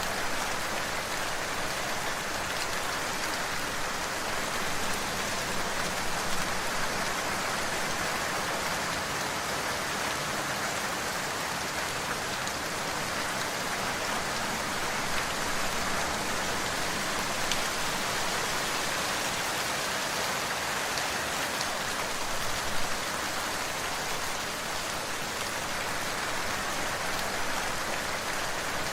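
Steady rain falling, an even hiss with the patter of drops.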